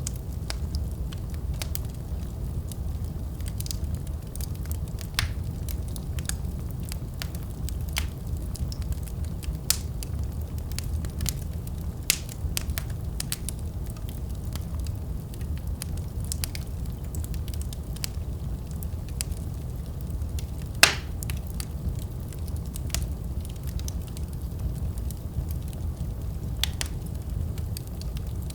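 Wood fire burning with a steady low rumble and irregular crackles and pops, one louder pop about two-thirds of the way through.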